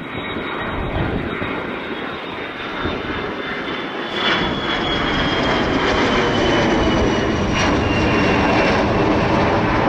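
Jet airliner's turbofan engines running at high power as the aircraft passes, growing louder about four seconds in, with a high whine that slowly falls in pitch over a low rumble.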